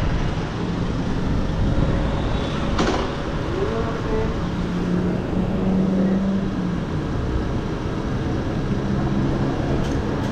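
Motor vehicle engines running with road traffic noise, a steady low rumble that swells in the middle, with one sharp click about three seconds in.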